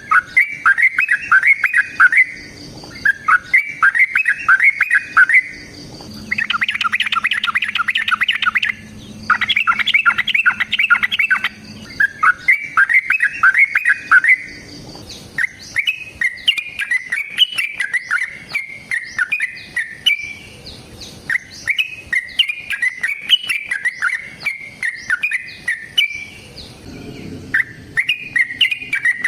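Yellow-vented bulbul (trucukan) singing a long, fast, chattering song. It comes in repeated bursts of rapid notes about two seconds each, then, about halfway through, turns into a looser run of bubbly whistled notes.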